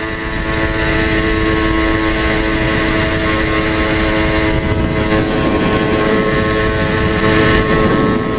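Yamaha TZR250 1KT two-stroke parallel-twin engine, fitted with RZ250RR carburettors, running at steady revs. It swells up over the first second and fades away near the end.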